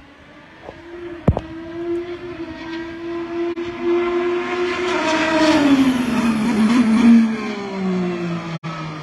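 An IndyCar's twin-turbo V6 approaches and passes, its engine note growing steadily louder and then falling in pitch as it slows for a turn. A hiss of tyre spray off the wet track comes as it goes by. There is one sharp click a little over a second in.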